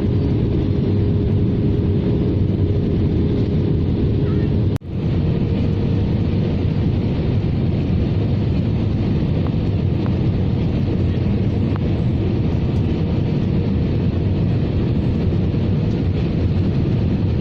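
Steady roar of engine and airflow inside the cabin of an Airbus A320-214 in flight, with a faint steady hum under it. It breaks off for an instant about five seconds in, then carries on the same.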